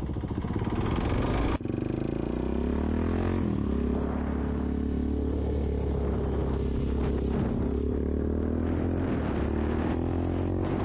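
Suzuki DRZ400S single-cylinder four-stroke motorcycle engine running under way. Its pitch climbs for the first second and a half, the sound breaks off briefly, then it settles into a steady drone.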